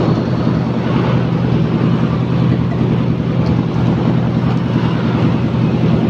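Engine idling steadily with a loud, low exhaust rumble.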